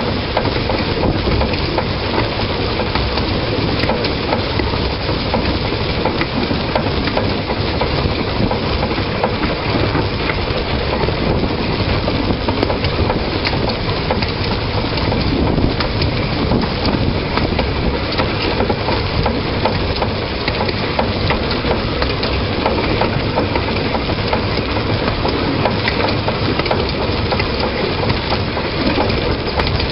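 Narrow-gauge train running along the track, heard from a camera on the front of the locomotive: a steady, dense rattle and rumble of wheels and running gear.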